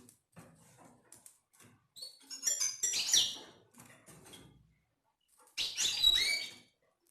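Canaries chirping in short spells of high whistled notes with quick pitch glides. The louder spells come about two to three seconds in and again near six seconds.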